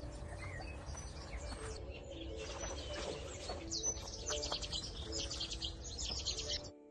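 Outdoor birdsong: several small birds chirping and trilling quickly and densely, with short lower notes among them, over a low rumble.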